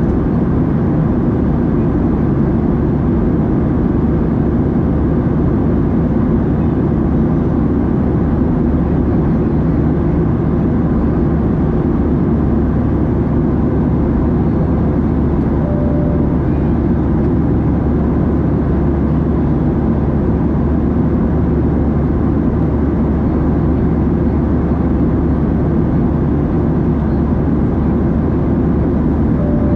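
Steady cabin noise of a Boeing 737-700 in flight: an even, low rush of engines and airflow heard from inside the cabin, unchanging throughout.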